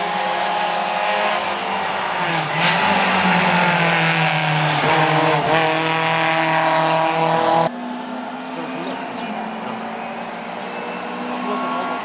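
Rally car engine at high revs, its pitch rising and dipping through gear changes and lifts. About two thirds of the way through it cuts off abruptly, and a quieter engine at steadier, lower revs follows.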